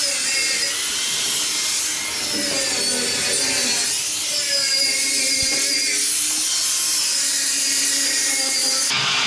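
Stick-welding arc burning a 6011 rod on rusty, painted thin metal: a steady, loud, crackling hiss with wavering tones under it. The hiss drops away suddenly near the end.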